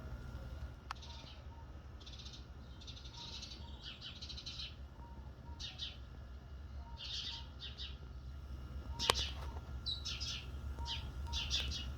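Birds chirping in short bursts of rapid high notes, with soft low paired notes repeating every few seconds. There is a sharp click about a second in and a louder one about nine seconds in, over a steady low rumble.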